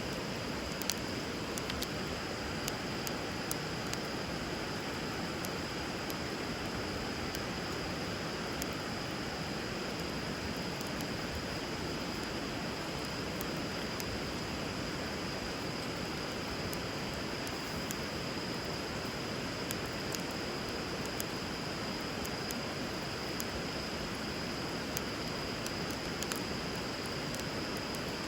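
Wood fire crackling with scattered sharp pops over a steady rush of river water, with a constant high-pitched whine.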